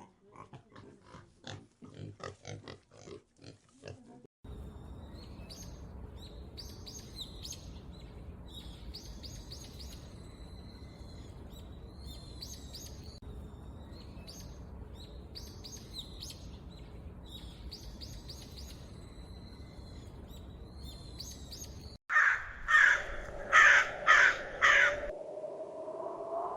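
A pig grunting in short bursts, then a bird's call phrase repeated every second or two over a steady hiss, then five loud, harsh crow caws near the end.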